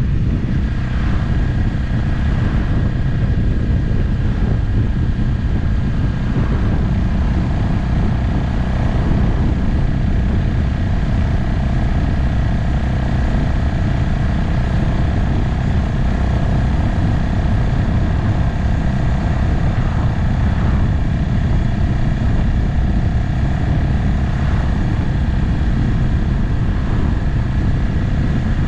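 Motorcycle cruising at a steady speed: the engine runs evenly under a constant low rush of wind and road noise on the mounted camera's microphone.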